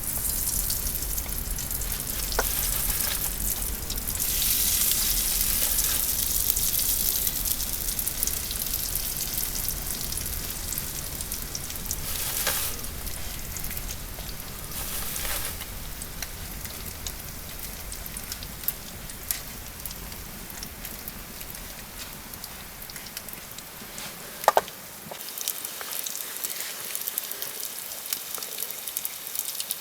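Food sizzling over a campfire, a steady frying hiss with scattered crackles and one sharp pop about 24 seconds in.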